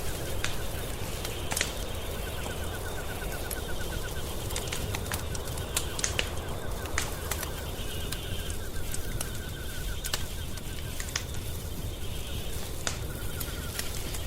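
Wood fire crackling in a fireplace, with scattered sharp pops over a low steady rumble. A faint, rapid ticking trill comes and goes several times.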